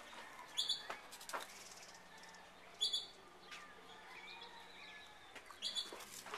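Small birds chirping: short, high chirps about every two to three seconds, with fainter calls between.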